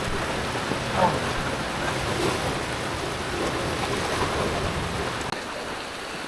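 Heavy rain and fast-flowing floodwater making a steady rushing noise.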